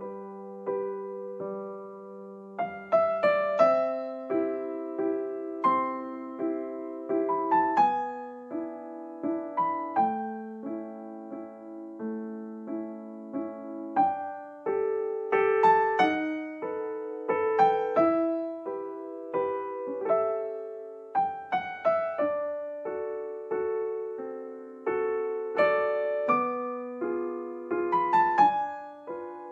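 Background music: a gentle solo piano piece, notes struck and left to ring in a slow melody over held chords.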